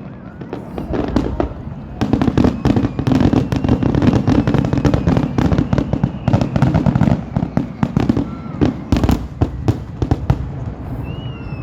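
Fireworks going off: a dense barrage of rapid crackling bursts and bangs, followed by a few sharp booms. A thin whistle starts near the end.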